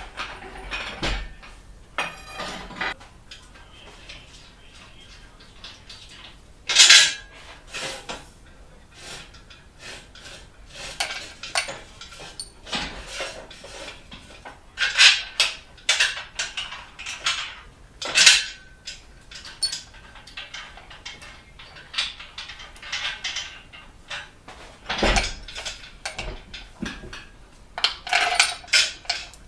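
Metal tools and car parts clinking and clanking now and then during engine-removal work, with a brief run of rapid ticks about two seconds in and two sharper clanks, about seven and eighteen seconds in.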